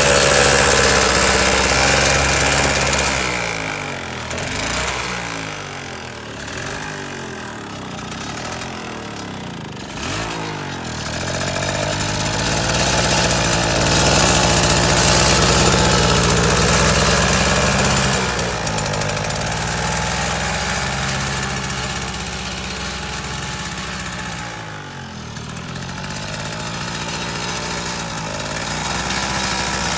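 Mini tractor's engine running continuously, its sound fading for several seconds early on and dipping once more near the end before coming back up.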